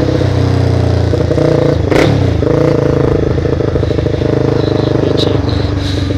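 Motorcycle engine running steadily while riding, with a sharp click about two seconds in and the engine note dropping a little near the end.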